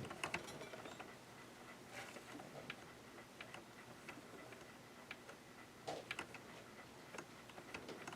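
Faint, irregular light clicks and taps from the parts of a Janome ME4014 sewing machine being handled and worked by hand, with its reverse lever and stitch-selector mechanism exposed.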